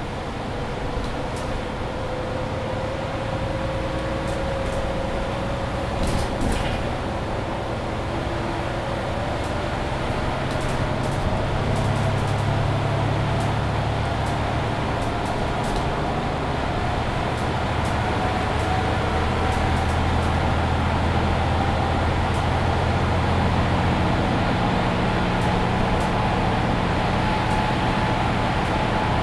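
Mercedes-Benz Citaro C2 hybrid city bus heard from inside the cabin while driving, its engine droning low. A whine climbs slowly and steadily in pitch as the bus gathers speed. A brief rattle of knocks comes about six seconds in.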